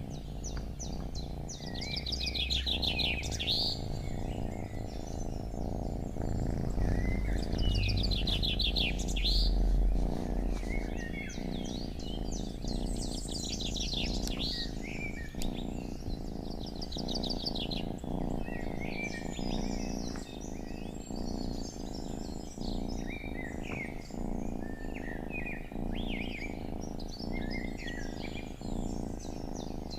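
Several songbirds singing and calling, with bursts of rapid trilled notes about 2, 8 and 13 seconds in and short chirps later on. Under the birdsong runs a steady low rumbling noise, deepest and loudest from about 6 to 10 seconds in.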